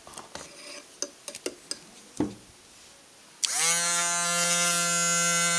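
A handful of sharp clicks, then, about two-thirds of the way in, a loud steady buzzing tone that slides up in pitch for a moment and then holds.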